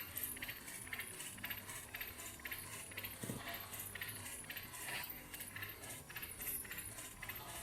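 Homemade Stirling engine running, its moving parts making a fairly regular clicking rattle, about three to four clicks a second, over a steady low hum.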